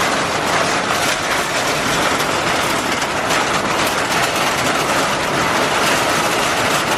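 Heavy rain pouring down steadily, a loud, even hiss of a strong downpour.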